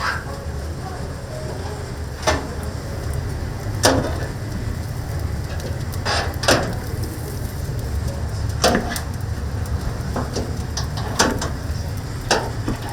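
Oak wood fire burning with a steady low rumble and sharp pops at irregular intervals, about ten in all.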